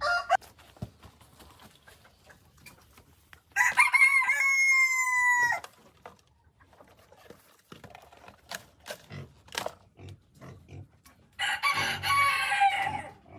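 Two long pitched animal calls, each lasting about one and a half to two seconds, one a few seconds in and one near the end, with scattered light clicks and taps between them.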